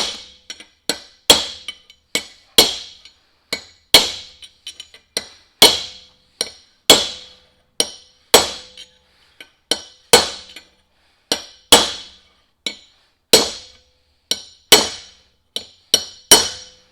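Hammer blows on a steel chisel driving a steel bearing race down into a truck's front wheel hub: a loud ringing metal strike about every second and a half, with lighter taps in between. The blows have not yet turned solid, so the race is not yet fully seated.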